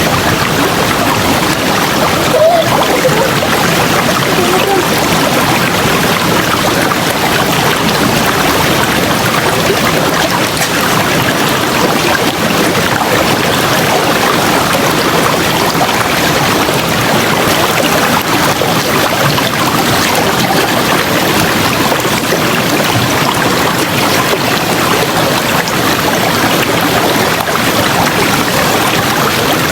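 River water rushing and flowing over rocks, a steady, loud, even rush.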